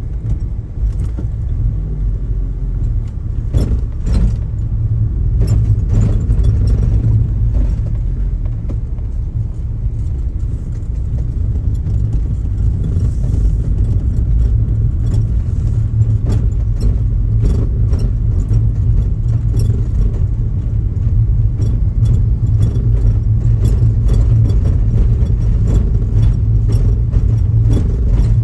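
Steady low rumble of helicopter cabin noise, with frequent small clicks and rattles over it.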